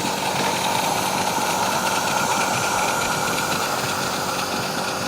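Miniature railway locomotive running steadily, a continuous mechanical sound mixed with hiss.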